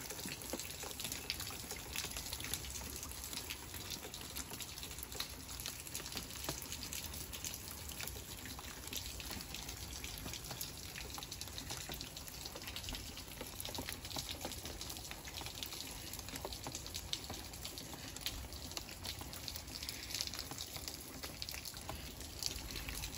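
Rain falling steadily, with many small drips ticking throughout, as a heavy thunderstorm eases off.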